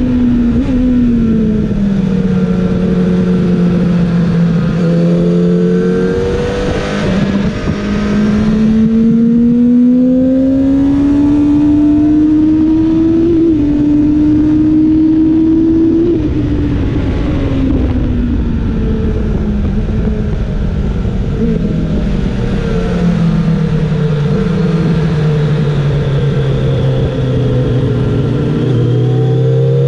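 Kawasaki ZX-7R's inline-four engine pulling hard at high revs, heard from the rider's seat over heavy wind noise. The pitch drops at first, then climbs steadily along the straight, with a small step down about halfway through at a gear change. It then falls away in steps as the bike slows for a corner, and rises again near the end as the throttle opens.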